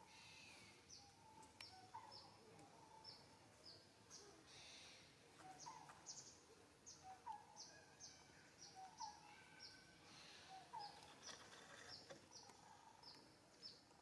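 Faint outdoor ambience: a bird repeats a short high chirp about twice a second, with a lower call every second or two.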